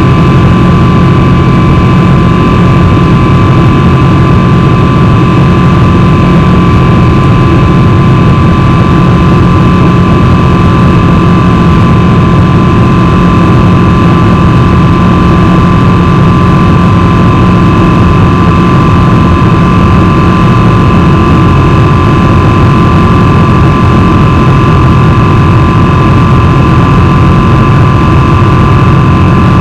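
Boeing 777-300 jet engines and airflow heard from inside the cabin: a steady, loud drone with a constant high whine running over it.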